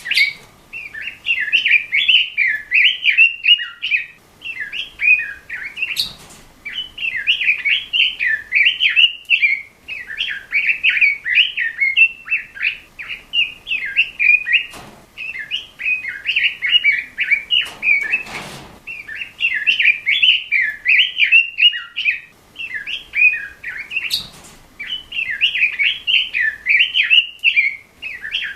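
Red-billed leiothrix (Pekin robin) singing a fast, warbling song in repeated phrases of about two seconds with short pauses between them. A few brief knocks cut through the song, about six seconds in, twice around the middle and near the end.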